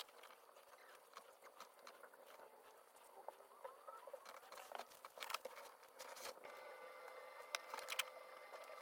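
Faint, scattered small clicks and taps, a few louder ones between about five and eight seconds in, over a faint steady hum that starts about six seconds in.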